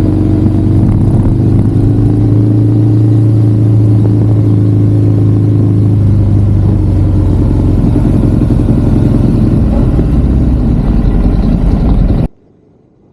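Ducati Monster motorcycle's V-twin engine running steadily under way, its note growing rougher after about six seconds; the sound cuts off suddenly near the end.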